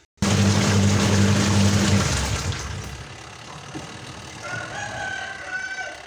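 A motor starts abruptly and runs with a steady low hum for about two seconds, then drops away. Near the end a rooster crows in the background.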